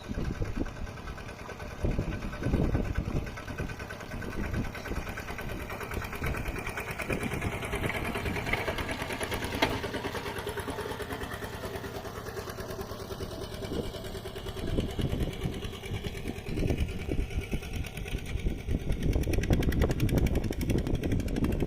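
Kubota mini tractor's single-cylinder diesel engine running with a fast, even chug under plowing load in a muddy field, getting louder near the end.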